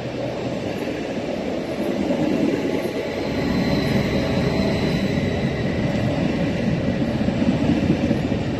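Meridian electric multiple unit (Stadler FLIRT) running along the platform. The steady rumble of wheels and running gear grows louder from about two seconds in, and a faint high whine sounds for a while in the middle.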